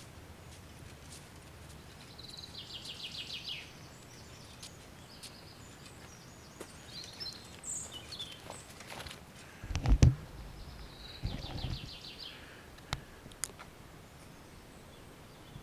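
A small songbird singing a fast, falling trill twice. About ten seconds in, a sharp thump from a bow shot and arrow striking a 3D foam target, the loudest sound, followed by a duller low thump.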